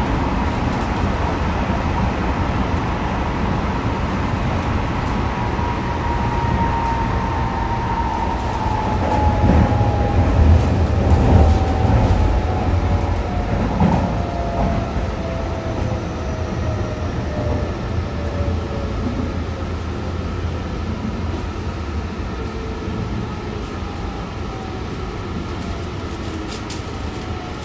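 Tsukuba Express electric train running, with wheel-and-rail rumble and a motor whine whose several tones slide steadily down in pitch as the train slows. The rumble is heaviest about ten seconds in and eases off after that.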